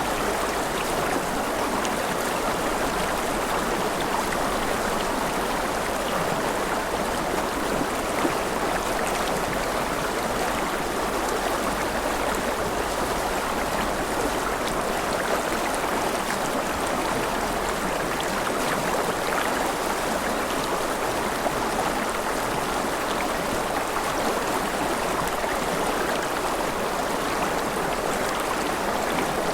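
Mountain river running over rapids: a steady, unbroken rush of water.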